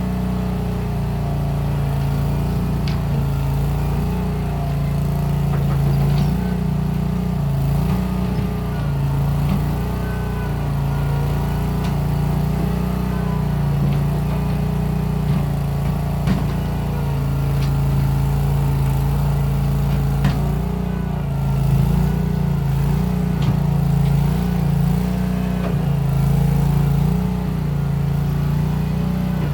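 Case 1816 skid steer's engine running steadily, its pitch rising and dropping as the load changes while it works, with a few light clicks and knocks from the machine.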